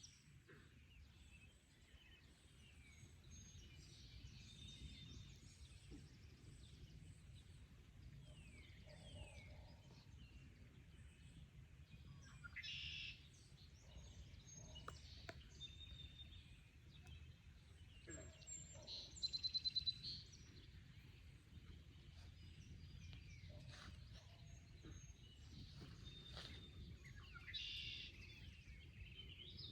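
Several wild birds singing and chirping in short, varied phrases, with one rapid trill of about ten notes two-thirds of the way through as the loudest call. A low steady rumble lies underneath.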